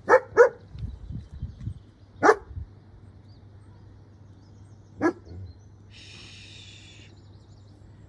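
A dog barking: two quick barks, then single barks about two and five seconds in.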